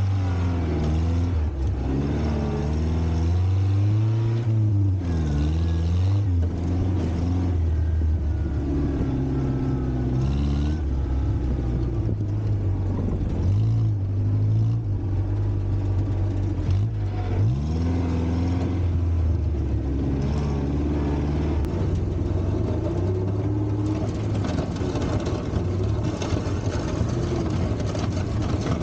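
Volvo four-cylinder gasoline engine of a 1960s Kalmar baggage tractor running, its revs rising and falling again and again while it clears snow; for the last few seconds it runs at a steadier speed.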